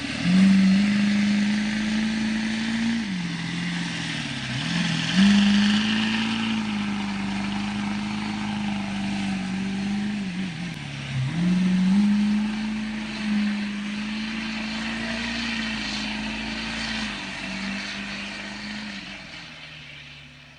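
A motor vehicle's engine running at a steady pitch, with road and wind noise; twice the pitch drops and climbs back up, then the sound fades away near the end.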